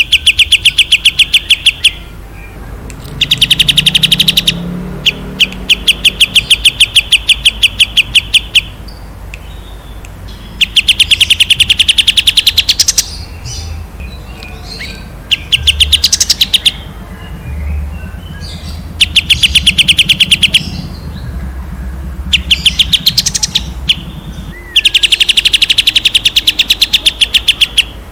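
A songbird singing loud, rapid-fire trilling bursts ("tembakan"), each a fast even run of sharp repeated notes lasting one to three seconds. About seven bursts come with short pauses between them.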